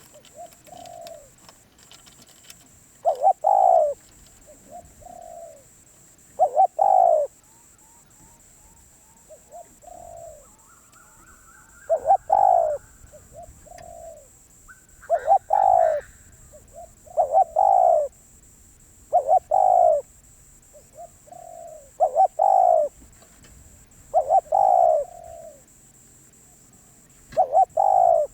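Spotted dove cooing over and over. Each phrase is a soft note followed by loud, deep coos, repeating every two to three seconds.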